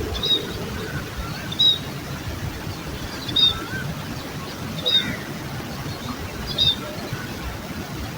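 A bird giving a short, high call five times, about every second and a half, with softer lower calls between them, over a steady background hiss of an outdoor field recording.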